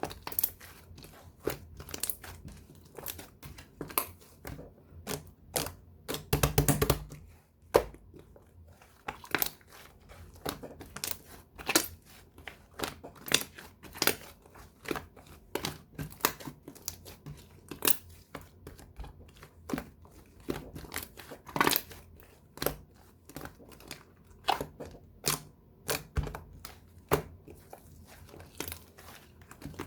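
Slime being pressed and played with by hand, giving sharp sticky pops and crackles about once or twice a second, with a longer run of crackling about six seconds in.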